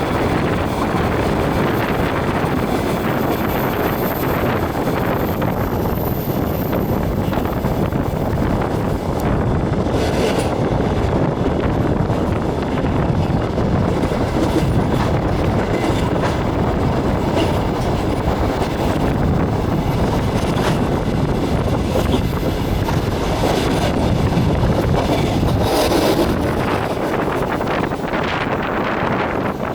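Passenger train running on the rails, a steady rumble of the carriage with wheels clattering over the track, heard from inside the carriage at the window.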